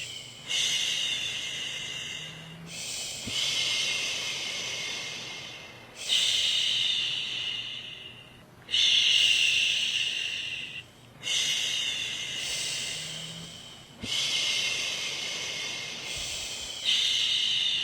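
A woman shushing, 'shhh' after 'shhh' to settle a baby to sleep: about seven long hushes, one every two to three seconds, each starting strong and trailing off before a brief pause for breath.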